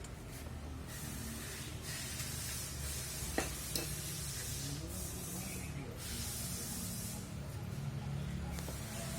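Hissing spray in several bursts of one to three seconds each, over a steady low hum, with a sharp click about three and a half seconds in.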